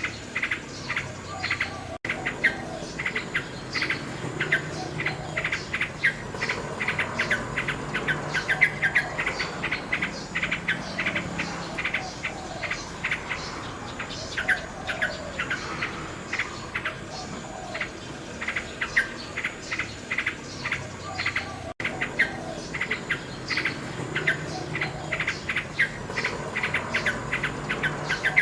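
Nightingale singing varied warbling phrases over a dense, rapid chirping that runs throughout. The sound cuts out briefly twice.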